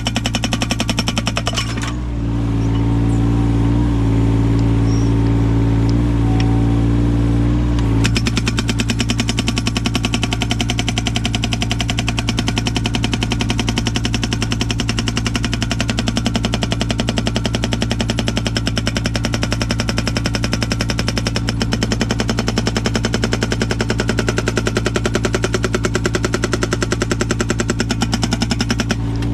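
Yanmar 017 mini excavator's diesel engine running, with a hydraulic whine for the first several seconds. From about eight seconds in comes the rapid, steady hammering of a hydraulic breaker fitted with an axe-shaped chisel, driving into firewood to split it.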